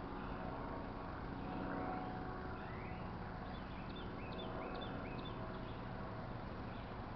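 A small bird calling, a run of about half a dozen quick high chirps about halfway through, with a couple of rising notes before them, over a steady low background rumble.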